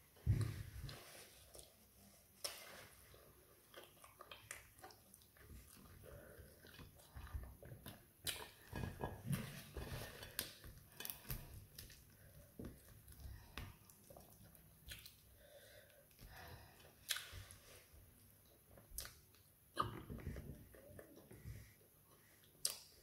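Close chewing and mouth sounds of a person eating tilapia and fried plantain by hand, with irregular soft clicks and a few sharper clicks spread through.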